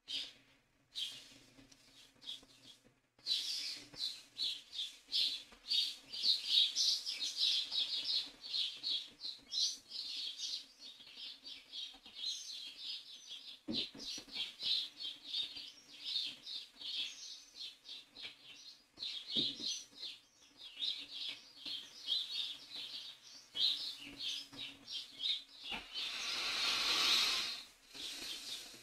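A small bird chirping and twittering almost nonstop in quick short notes. Near the end comes a brief, louder rush of hissing noise.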